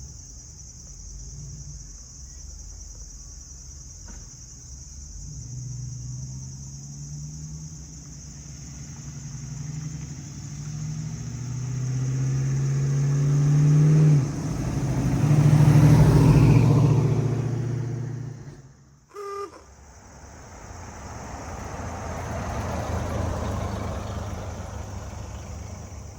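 A car engine accelerating, its pitch climbing for several seconds, then dropping as it shifts and pulling hard again at its loudest before fading as it drives off. After a sudden break another vehicle passes, rising and fading. A steady high insect buzz runs underneath.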